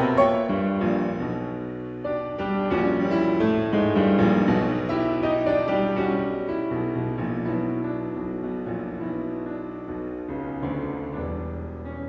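Background piano music, a steady flow of notes with chords.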